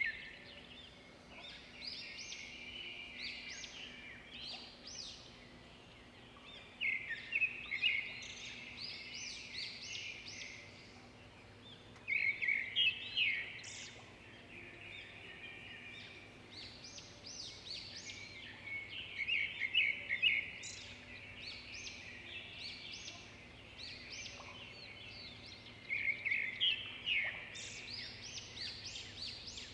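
Birds singing: bursts of quick high chirping notes that come in phrases every few seconds, over a faint steady low hum.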